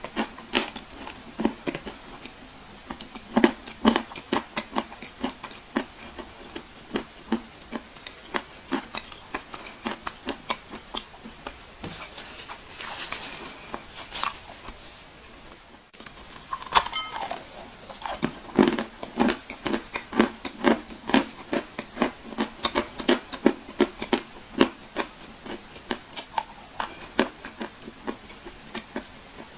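Dry clay being crunched and crumbled by hand: a dense, uneven run of sharp crackles and snaps, with a brief soft hiss a little before halfway and a momentary break at the halfway point.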